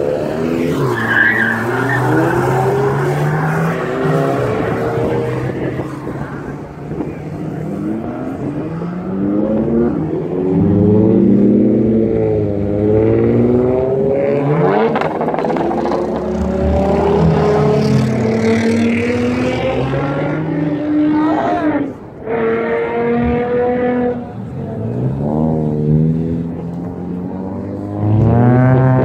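Cars accelerating away one after another, their engines revving up and changing gear, so the pitch climbs, drops and climbs again with each car.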